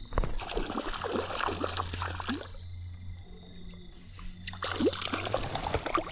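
Water splashing in two bursts, about two seconds each with a short lull between: a hooked wild brown trout thrashing at the surface of a small creek.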